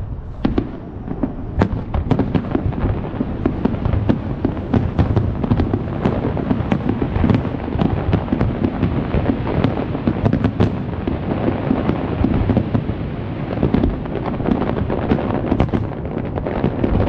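Dense fireworks barrage: many shells bursting in rapid, overlapping bangs over a continuous low rumble.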